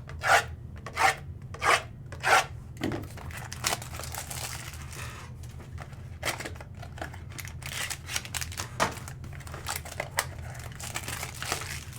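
Plastic wrapping and cardboard being torn and crinkled by hand as a sealed box of trading cards is opened. There are several sharp rips in the first few seconds, a stretch of crinkling in the middle, then more short tears.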